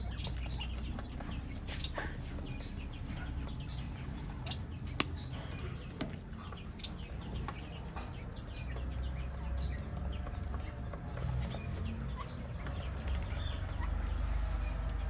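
A flock of aviary finches chirping with many short, overlapping calls over a low rumble, with two sharp clicks about five and six seconds in.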